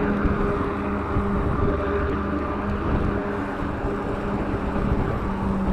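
Wind rush and road noise at speed, with a steady low drone from a truck's engine close ahead.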